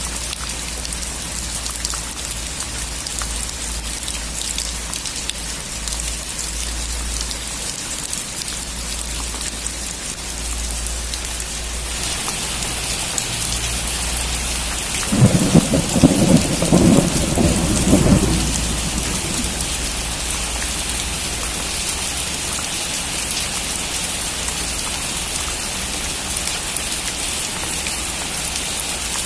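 Steady rain falling, with a clap of thunder rumbling for about three seconds around the middle. The rain grows brighter and heavier a few seconds before the thunder.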